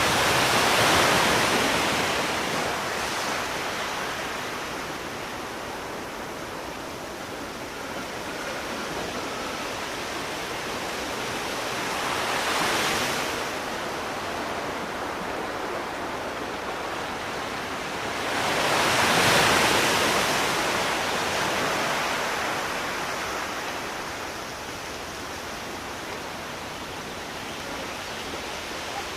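Sea waves washing in and drawing back over a steady hiss of surf, with three louder swells: one right at the start, a shorter one about halfway, and the loudest about two-thirds in.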